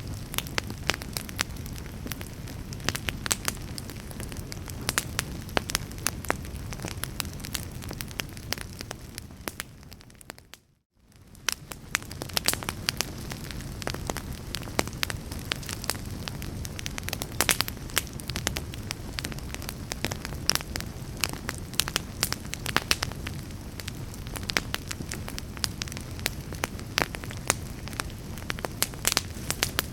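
Wood fire in a fireplace crackling, with many irregular sharp pops over a steady low rumble and hiss. About ten seconds in, the sound fades out to near silence and fades back in within about a second.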